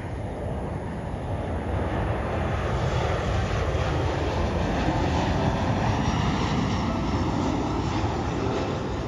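Airliner jet engines passing close by on the runway: a broad roar that builds over the first two seconds, holds loud and steady, and eases slightly near the end.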